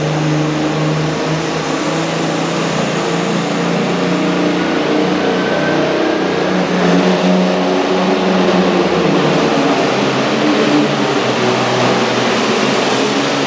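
Super farm pulling tractor's turbocharged diesel engine running loud, with a high turbo whistle climbing in pitch for several seconds and cutting off about halfway through.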